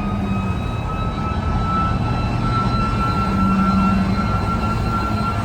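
Fire engine siren whining and rising slowly in pitch, over the heavy rumble of the apparatus's diesel engine.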